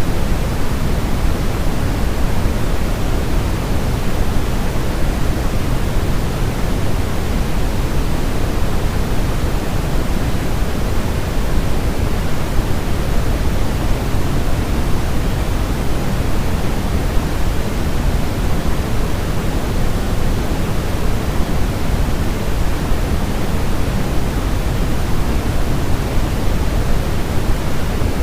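Steady, unchanging sleep-aid white noise: a continuous even hiss with most of its weight in the low end, like a deep rushing sound.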